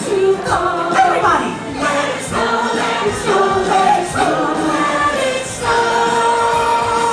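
Group of singers performing a song with instrumental accompaniment, moving into one long held note about two-thirds of the way through.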